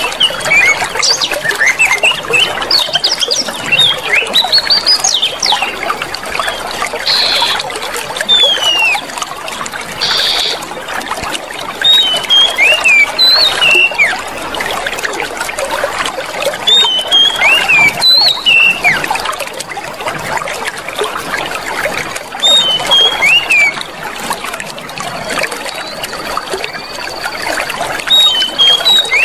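Clear water flowing and trickling steadily, with small birds chirping over it. The chirps come thickly at first, then settle into a short rising-and-falling phrase repeated every few seconds.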